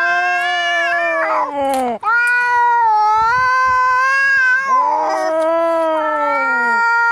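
Angry cats caterwauling: long, drawn-out yowls that waver and bend in pitch, following one after another with only a brief break, the sound of cats squaring up to fight.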